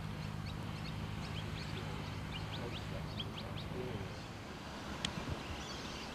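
A bird giving a quick series of short, high chirps over a steady low hum that fades about four seconds in. A single sharp click comes about five seconds in.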